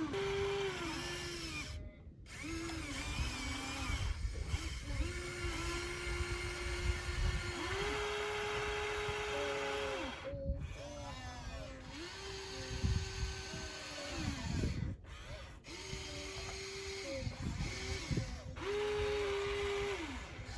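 Electric motors of radio-controlled construction models whining in runs of one to two seconds, the pitch stepping up and down as they start and stop, broken off abruptly a few times.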